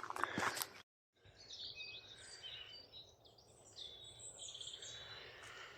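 Faint birdsong from several birds, short chirps and whistled notes, over a quiet background hiss. A few clicks come at the start, then a moment of dead silence about a second in before the song continues.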